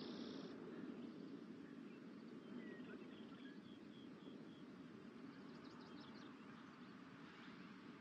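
Small birds calling faintly over a low, steady background rush: a run of short high chirps, about two a second, in the middle, then a quick trill a little later.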